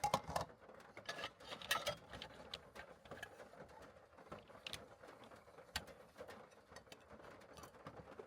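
Scattered small clicks and knocks, busiest in the first two seconds, then a few single sharp clicks.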